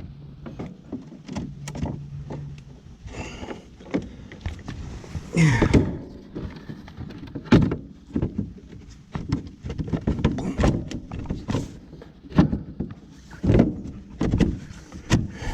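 Irregular knocks, clunks and scrapes of hands and tools working on a standby generator's metal enclosure, about one sharp knock every second or so.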